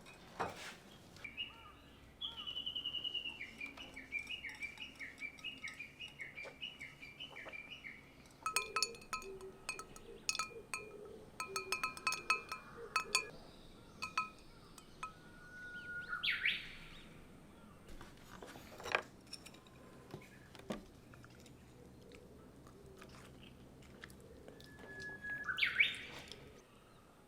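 Wild birds calling: a run of quick, repeated falling chirps, then two separate rising whistled calls, the second, near the end, the loudest. A few light clicks in the middle.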